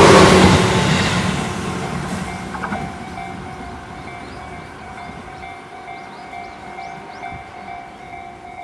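Tobu 10030-series electric train running past close by, its wheels and running gear rushing loudly and then fading as it pulls away. From about two seconds in, a steady pulsing electronic two-tone ringing sounds, typical of a level-crossing warning bell.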